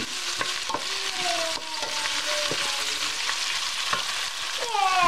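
Beef and vegetables sizzling in a stainless steel pan as they are stir-fried with a wooden spoon, the spoon knocking against the pan now and then. A short falling tone sounds near the end.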